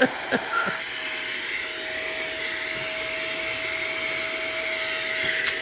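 HŌM cordless electric air duster with a 51,000 RPM motor running steadily, blowing air: a rushing hiss with a constant whine, described as powerful.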